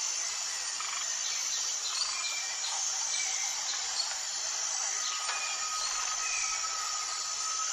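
Tropical forest ambience: a steady high-pitched insect drone under scattered short bird chirps. About five seconds in, a long steady note starts and holds past the end.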